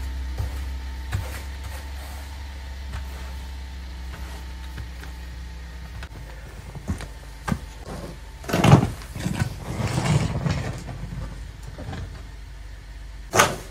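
Car engine idling with a steady low hum. About two-thirds of the way in come a few rough scraping noises, and a single sharp knock comes near the end.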